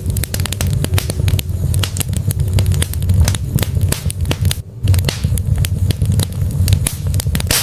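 Wood fire burning in a fireplace: logs crackling with frequent sharp pops over a steady low rumble of flame. The sound drops out for a moment a little past the middle.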